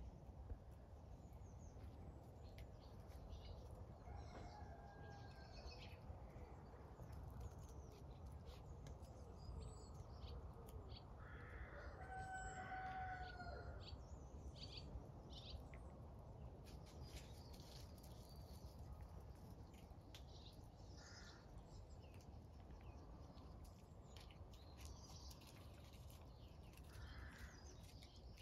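Faint bird calls over a quiet outdoor background, with one longer call about halfway through.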